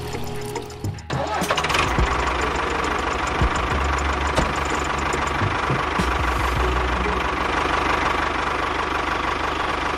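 Tractor engine starting about a second in, then running steadily with a low rumble and a steady whine.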